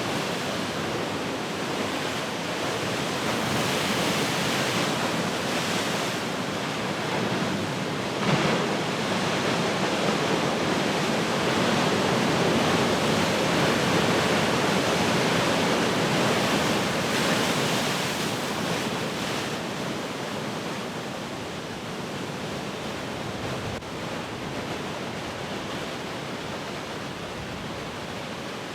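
Heavy ocean surf: large waves breaking and washing ashore in a steady rushing roar, with a short sharper crash about eight seconds in. The surf swells louder through the middle and eases off toward the end.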